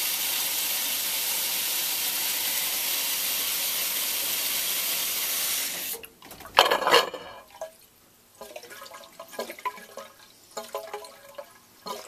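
Steady rush of water through the backup sump pump test setup, cutting off suddenly about halfway through. A brief loud clatter follows, then a few light knocks.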